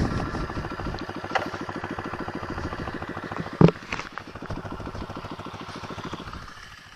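Pitbike's 125cc single-cylinder four-stroke engine running at low revs with an even firing beat, dying away near the end. There is a single sharp knock about three and a half seconds in.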